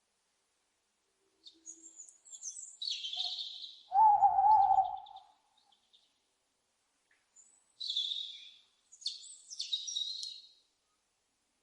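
Owl calls: a loud, wavering, single-pitched call about four seconds in, with bouts of higher-pitched calls before and after it.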